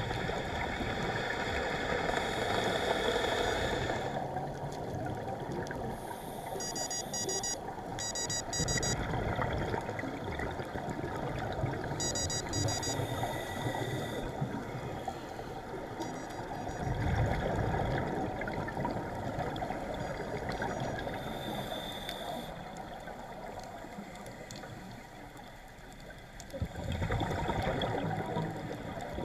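Underwater scuba-dive audio: steady water noise with surges of a diver's exhaled regulator bubbles every several seconds. Two short runs of rapid high-pitched electronic beeps come about 7 and 12 seconds in.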